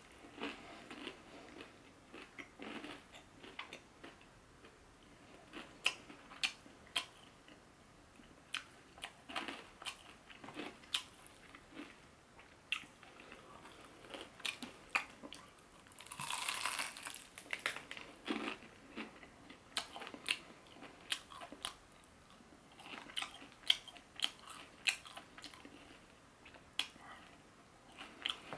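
Close-miked chewing and crunching of crispy fried chicken: many short crackly crunches and mouth sounds, with a longer, louder burst of noise about halfway through.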